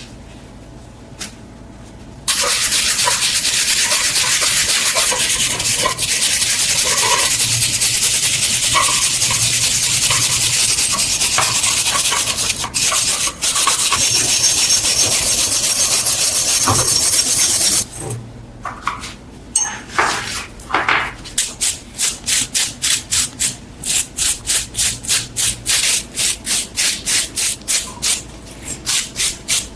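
A steady, loud hiss for about fifteen seconds, then rhythmic back-and-forth rubbing strokes, about three a second, of hand sanding or polishing on the corn sheller's metal.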